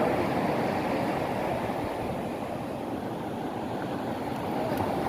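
Steady wind and ocean surf noise.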